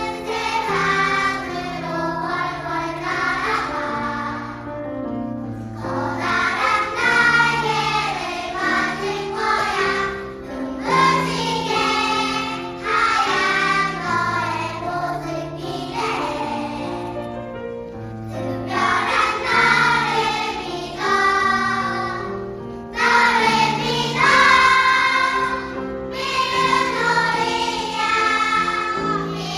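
Children's choir singing a song in phrases, with brief breaks between them.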